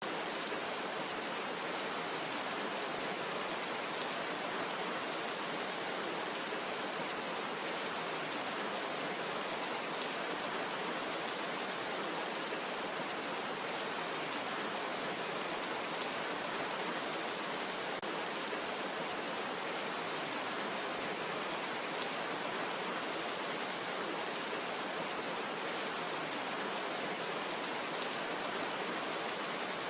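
Steady rain, a constant even hiss with fine drop ticks on top.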